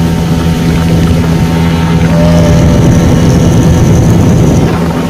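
Speedboat engine running steadily under way, a little louder about two seconds in, with a high hiss joining it for a couple of seconds.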